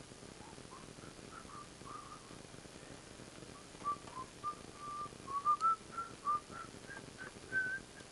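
A person whistling a wandering tune, one note at a time moving up and down with some notes held briefly. The notes grow louder about halfway through.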